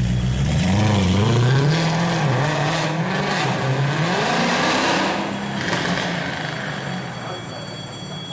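Mercedes C63 AMG engine revving through its exhaust. The pitch rises and falls several times, then settles and fades near the end.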